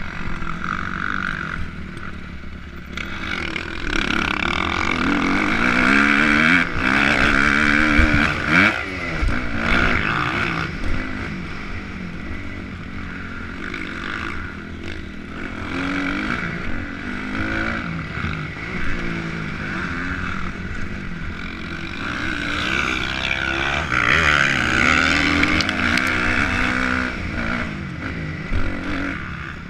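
Motocross dirt bike engine revving up and falling back again and again as it is ridden around the track, under steady rushing noise. It is loudest in two long stretches: one starting about four seconds in and one in the last third.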